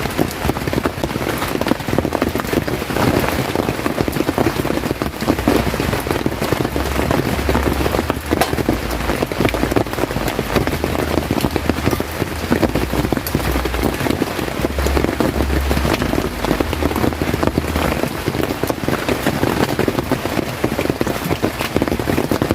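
Heavy rain falling steadily as a dense, even hiss of drops, with a low rumble for about ten seconds midway.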